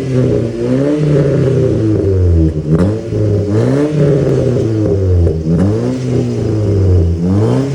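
Nissan Primera's 1.6-litre naturally aspirated four-cylinder engine revved repeatedly in short blips, each rising and falling back toward idle, heard through an exhaust with the rear muffler removed and run out as a straight pipe to a new dual tip, which is meant to give it a deeper, bassier note.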